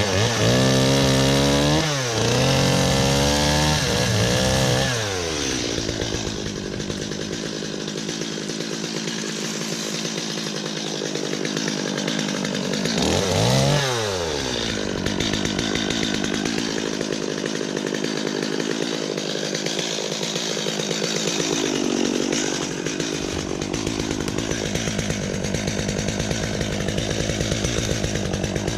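Chainsaw revved up and down several times in the first few seconds and again about halfway through, with long stretches at high speed between, cutting away brush from behind a tree.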